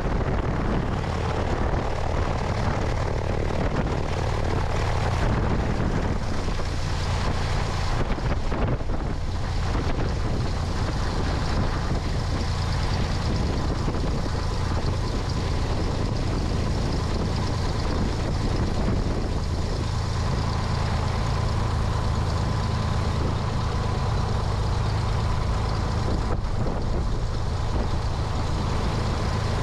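Cessna 172's piston engine and propeller running steadily, with wind rushing over a wing-mounted microphone.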